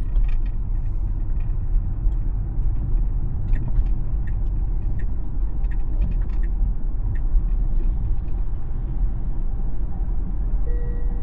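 Tesla electric car driving on the road: steady low tyre and road rumble heard inside the cabin, with scattered light ticks. A steady electronic beep starts near the end.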